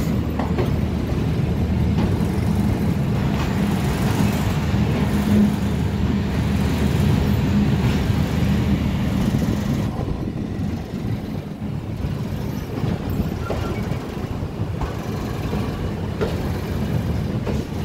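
Passenger train running, heard from inside the carriage: a steady low running noise from the wheels and coach, easing a little about ten seconds in.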